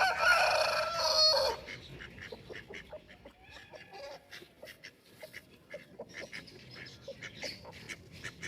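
A rooster crowing once, loud and pitched, ending on a falling note about a second and a half in. Afterwards the flock keeps up many short, quiet chirps and clucks.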